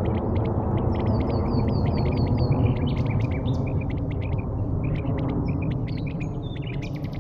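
Small birds chirping and calling in quick short notes, with a run of falling chirps about a second in, over a steady low rumble.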